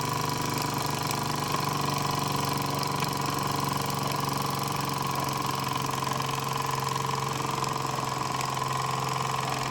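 Mamod Ol' Stumpy live-steam model traction engine running steadily under steam, a fast even chuffing with a steady hum.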